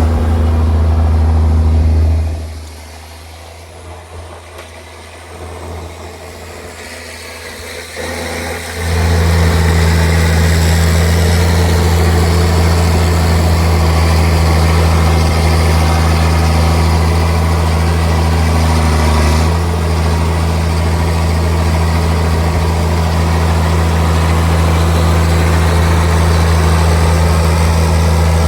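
Straight-piped John Deere 4630 tractor's six-cylinder diesel running with a steady, deep drone. About two seconds in the sound falls away to much quieter for several seconds, then comes back at full strength near nine seconds and holds steady.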